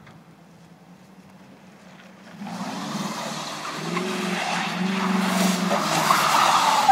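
2003 Chevy Silverado pickup doing donuts: its engine revs up about two and a half seconds in and grows steadily louder as the rear tires spin, with tire squeal rising near the end.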